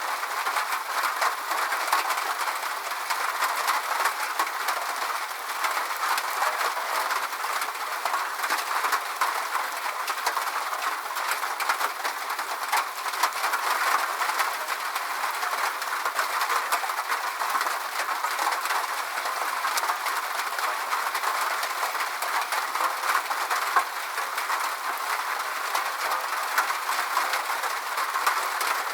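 Steady rain falling: an even hiss with many fine ticks of drops, holding level throughout.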